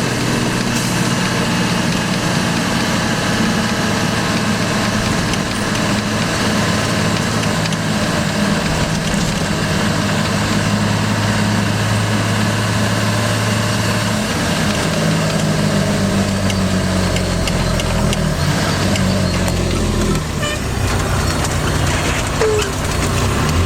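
Fire engine's engine running steadily, heard from inside the cab; its speed changes and drops in the last several seconds.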